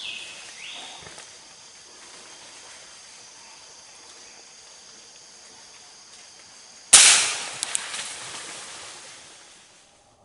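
A single sharp gunshot about seven seconds in, dying away over a couple of seconds, with two small clicks just after it. It stands out over a steady high insect drone, and a short rising whistled call sounds near the start.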